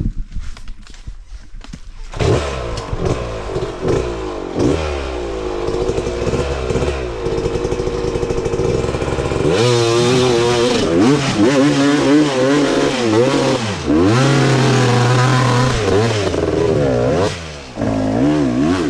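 Dirt bike engine revving hard in repeated rising and falling bursts as the rider works the throttle, pushing the bike up over a rocky obstacle. A few clattering knocks come first, and the engine comes in about two seconds in. It grows louder from about halfway through and drops off briefly near the end.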